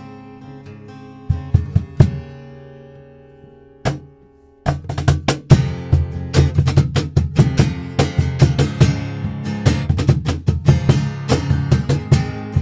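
Acoustic band playing an instrumental passage: a ringing acoustic guitar chord dies away with a few struck accents, then about five seconds in rhythmic acoustic guitar strumming with percussion comes in and keeps a steady beat.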